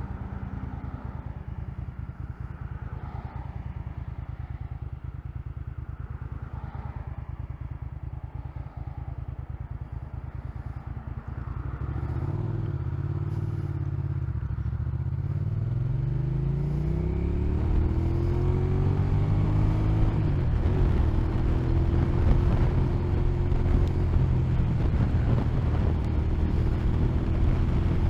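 Motorcycle engine idling with a steady low pulse, then about twelve seconds in pulling away and accelerating through the gears, its pitch climbing in steps before settling into a steady cruising note.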